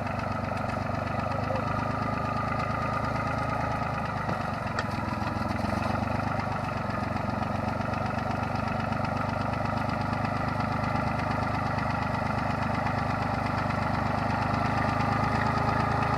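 Yanmar YM3000 tractor's diesel engine running steadily as the tractor levels the field soil.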